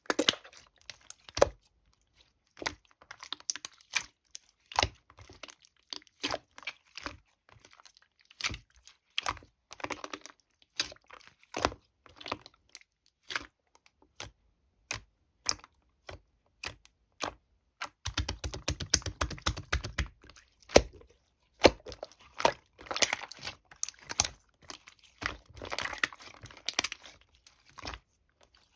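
Clear slime being squished and stretched by hand, giving irregular sticky clicks and small pops. About two-thirds of the way through comes a rapid run of clicks, followed by denser crackling.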